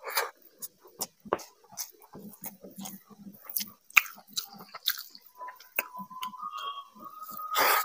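Close-miked eating sounds: wet chewing and lip smacking of rice mixed with fish curry, eaten by hand, with the squish of fingers kneading the rice. About two thirds of the way in a thin, steady high tone begins and rises slightly, and a louder noisy burst comes near the end.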